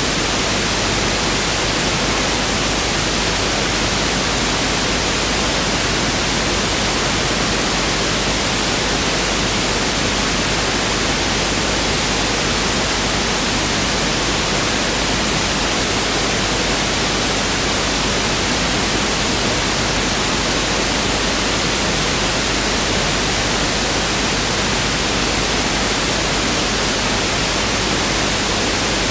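Pink noise test signal: a steady, even hiss spread across the whole frequency range, with no change.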